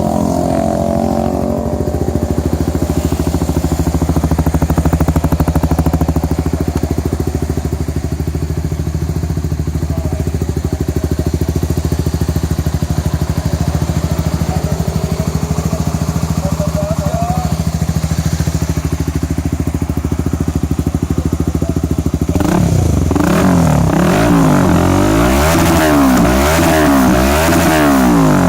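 2017 Honda CBR150R's single-cylinder engine idling steadily through an aftermarket Proliner carbon long silencer with stainless header, no dB killer fitted. About 22 seconds in the throttle is blipped over and over, the revs rising and falling quickly.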